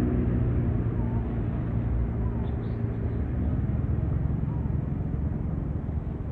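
A motor engine running steadily with a low hum, and a few faint short chirps or calls about two to three seconds in.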